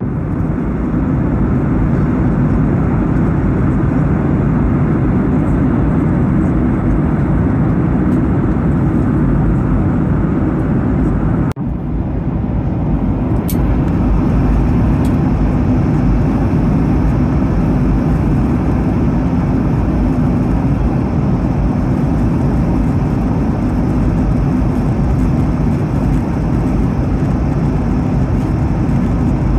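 Steady roar of a jet airliner's cabin in cruise flight: engine and airflow noise, heavy in the low end, with a brief dropout about twelve seconds in.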